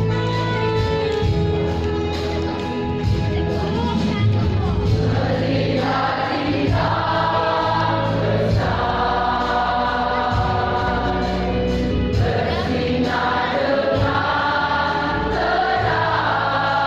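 Church choir singing with a steady instrumental accompaniment; the voices grow much stronger about five and a half seconds in.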